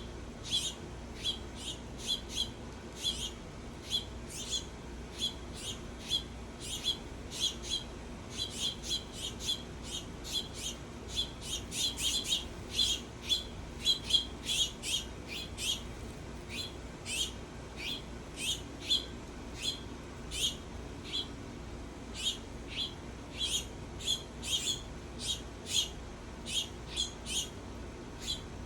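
Songbirds giving short, sharp chip calls over and over, one to three a second, coming fastest around the middle. A faint steady low hum runs underneath.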